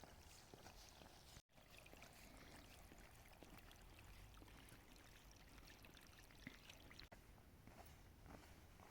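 Near silence: a faint steady hiss, cut off completely for an instant about a second and a half in.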